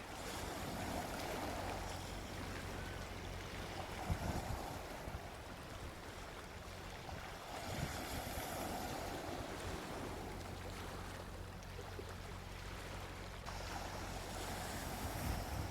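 Gentle sea waves washing onto a beach, the surf swelling and easing several times.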